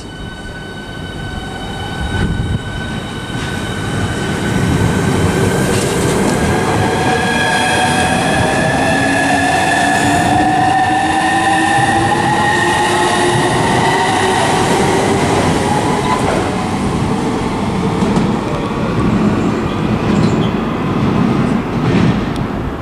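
Southeastern Class 395 Javelin high-speed electric train pulling out and accelerating past, its electric traction drive whining in several tones that climb steadily in pitch for about fifteen seconds. The whine then gives way to the rumble and clatter of the wheels as the carriages go by.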